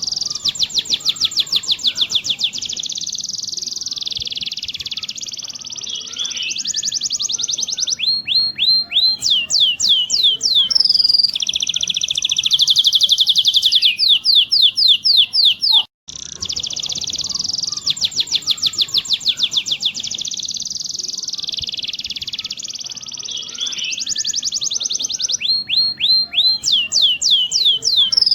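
Domestic canary singing a long song of fast rolling trills and runs of rapid downward-sweeping notes. It is a looped recording: after a brief break about halfway through, the same phrase of about 16 seconds starts over.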